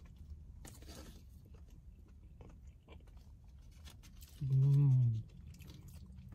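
A person chewing a mouthful of taco with small, soft mouth clicks, over a steady low hum. About four and a half seconds in comes a pleased hummed "mmm" that lasts under a second and falls slightly in pitch.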